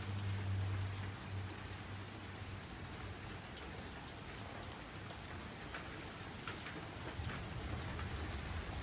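Steady rain falling during a thunderstorm, with a few single drops ticking sharply close by. A low hum fades out in the first second or so.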